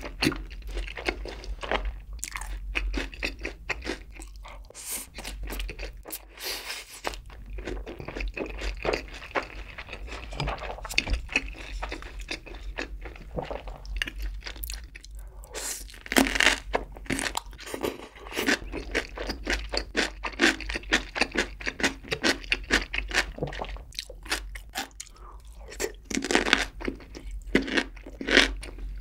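Close-miked chewing of sauced fried chicken and rice, wet and smacking. From about halfway through, louder crisp crunches come in as raw cucumber kimchi is bitten and chewed.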